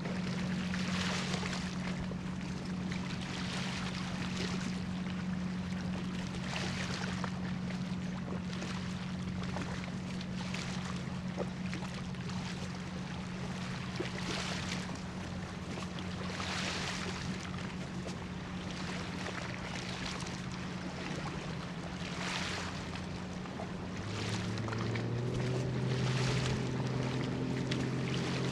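A cargo ship's engine humming steadily across the water, with a rhythmic whooshing every two to three seconds. Near the end the engine note rises and grows louder.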